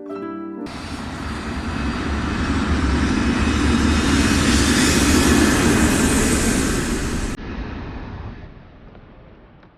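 Jet airliner passing by, a loud rushing noise that swells to a peak and then dies away. The high hiss cuts off abruptly about seven seconds in, leaving a fading rumble. A plucked harp music cue ends about half a second in.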